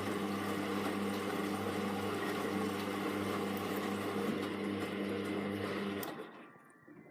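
Hoover Vision Tech VT 914 D22X washing machine running mid-cycle with a steady hum, which stops about six seconds in.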